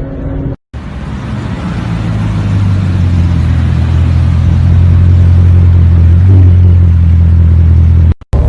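A car engine running loudly at steady revs, a deep drone that builds in loudness over the first few seconds and then holds. It starts and stops at abrupt cuts.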